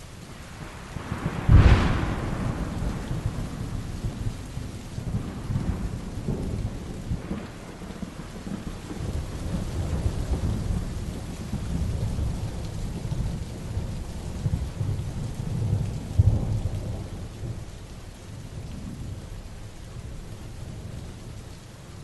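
Heavy rain falling steadily, with thunder: a sharp, loud clap about a second and a half in that rolls on as a long low rumble, and a second strong clap about three-quarters of the way through.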